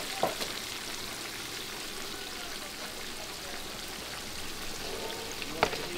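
Steady sizzling hiss of food cooking in large pots over a fire, with a sharp knock near the end.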